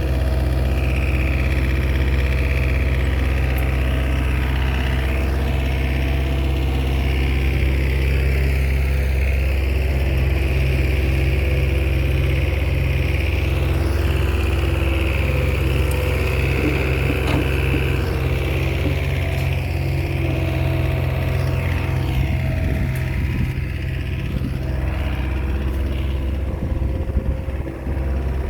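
Bulldozer's diesel engine running steadily. About three-quarters of the way through, the engine note dips briefly.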